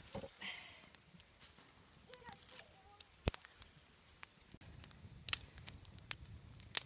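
Scattered sharp snaps and crackles of twigs and dry leaves at a small campfire being lit, the loudest about three seconds in, with faint voices in between.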